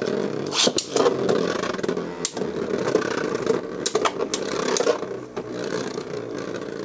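Beyblade Burst tops whirring and scraping as they spin in a plastic stadium, with several sharp clacks as they collide.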